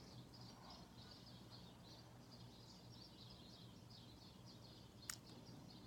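Near silence, with faint, continuous high-pitched chirping in the background and one sharp click about five seconds in.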